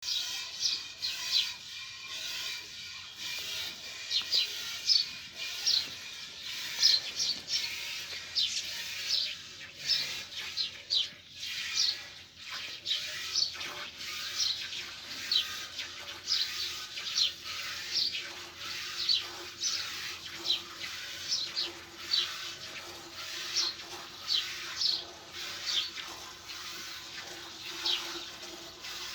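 Small birds chirping over and over: short, high notes that slide downward, often in twos and threes, coming about once a second throughout.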